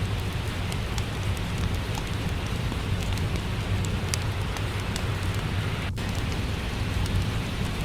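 Steady rain ambience with a deep low rumble, overlaid with scattered sharp crackles from a wood fire in a fireplace. The sound briefly drops out for an instant about six seconds in.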